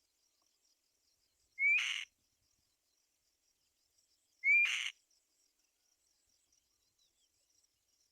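Black-winged kite calling twice, about three seconds apart: each call is a short rising whistle that breaks into a harsh, rasping screech. A faint, high, fast chirping runs underneath.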